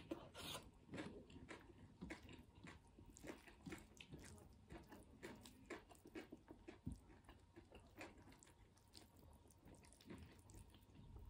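Faint close-up chewing: soft wet smacks and clicks of a person chewing a mouthful of rice mixed with nettles and dried meat.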